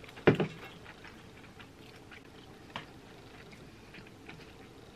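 People chewing fried chicken, with faint wet clicks of eating. One louder, short sound comes about a third of a second in.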